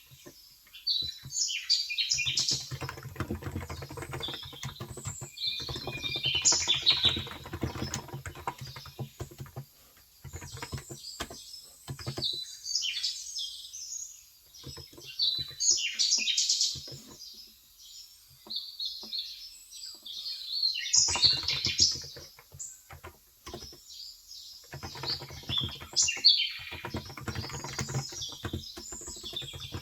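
Typing in bursts with pauses between them on a Cox Endeavor tenkeyless electrostatic capacitive keyboard with light 35 g keys. Small birds chirp steadily throughout.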